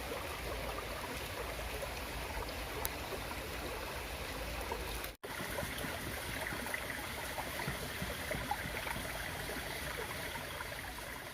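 Flowing stream water, a steady rushing and trickling, broken by a split-second dropout about five seconds in, after which it carries less low rumble.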